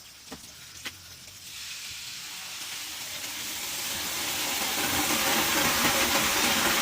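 Rushing water, growing steadily louder for several seconds before levelling off, after two faint knocks near the start.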